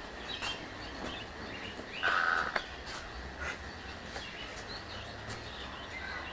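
Birds calling in an aviary: scattered short high chirps, and one louder harsh rattling call about two seconds in.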